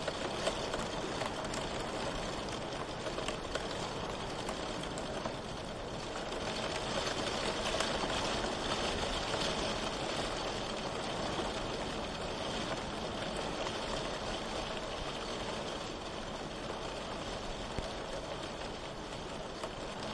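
Steady rain falling, a dense even hiss with scattered fine drop ticks, swelling slightly a third of the way in.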